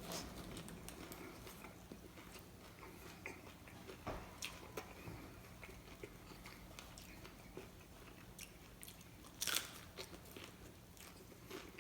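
A person biting into and chewing a Taco Bell taco close to the microphone: scattered short crunches and mouth sounds, with a louder bite about nine and a half seconds in.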